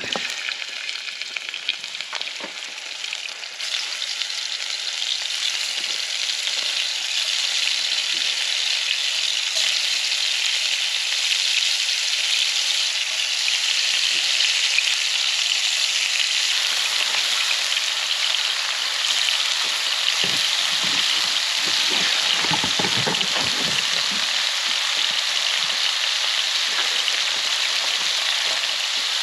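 Mushrooms frying in oil in a pan over a campfire, a steady sizzle that grows louder a few seconds in and again about halfway through. A few low knocks come near twenty seconds in, as of the pan being stirred.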